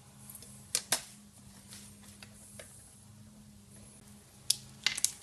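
Sharp clicks from small hand tools at the bench, which fit the pins being trimmed to length: two close together about a second in and a quick cluster of three near the end, over a steady low hum.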